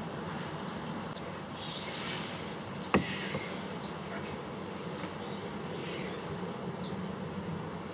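Yanagiba knife blade being stroked over a natural whetstone, light scraping strokes putting on a micro bevel, with one sharp click about three seconds in.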